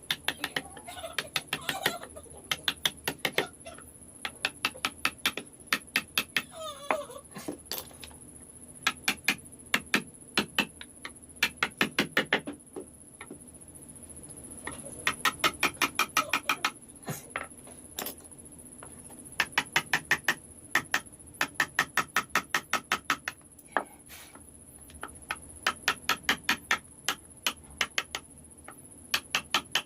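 Runs of sharp taps of a mallet or hammer on a wood-carving chisel, several strikes a second in bursts with short pauses between, as the chisel is driven into the wood.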